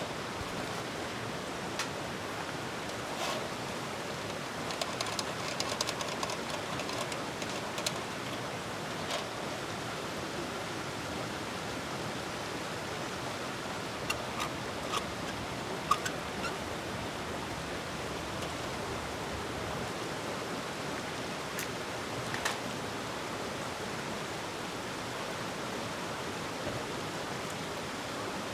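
Steady rushing hiss with a few scattered light clicks and clinks, the sharpest about halfway through.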